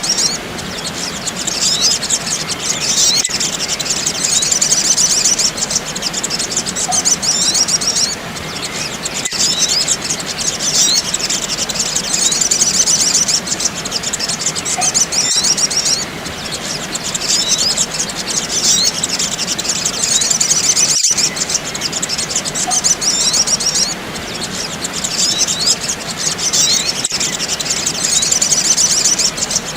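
Sogok ontong (little spiderhunter) birds chirping and twittering rapidly and densely at a high pitch, a looped lure recording whose pattern repeats about every eight seconds.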